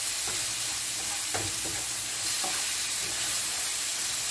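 Omena (small dried Lake Victoria sardines) frying in a pan with onions and tomato, sizzling steadily as a wooden spoon stirs and scrapes through them, with a few light knocks of the spoon on the pan.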